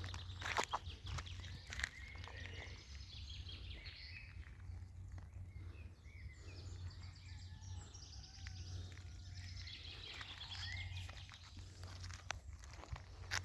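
Small birds chirping with short, scattered calls in woodland, with a few footsteps near the start and again near the end.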